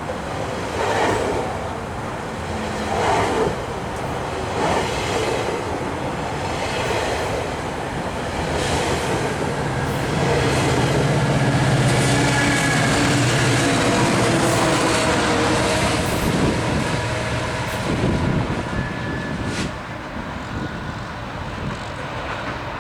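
GO Transit diesel push-pull commuter train running through the station: a steady rumble of steel wheels on rail, with scattered clicks as wheels cross rail joints. A low engine drone swells for several seconds midway through.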